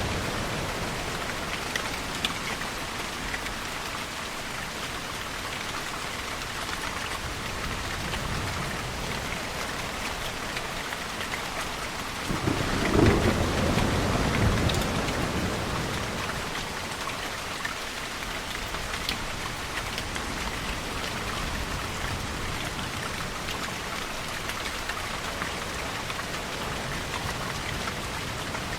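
Steady rain in a mixed storm ambience, with a rumble of thunder swelling and fading over about three seconds midway through.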